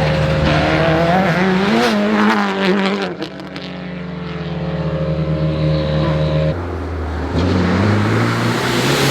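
Rally car engines on a forest stage: one revs up and then holds a steady note that grows louder as the car comes closer. It cuts off suddenly about two-thirds through, and another engine note rises and then starts to fall near the end.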